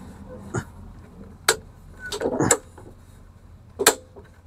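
Lawnmower bail handle and brake cable being worked: four sharp metallic clicks and knocks at uneven spacing, one heavier clunk in the middle. The handle is sticking, likely because the cable is pinched.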